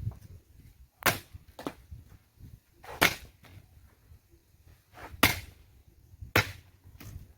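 A series of about six sharp cracks, unevenly spaced a second or two apart.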